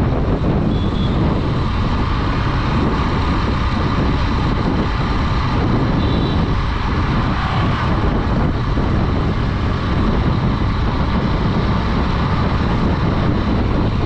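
Honda Dream 110's single-cylinder four-stroke engine running steadily while riding, mixed with the rush of wind on the microphone and tyre and road noise.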